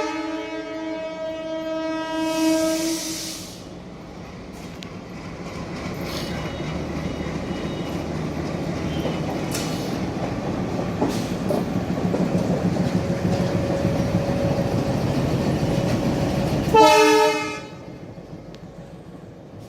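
WDM diesel locomotive sounding its multi-tone air horn, which stops about three seconds in amid a short burst of hiss. The engine and wheels then make a rumble that grows steadily louder as the locomotive comes on. Near the end the horn gives one short blast and the sound falls away.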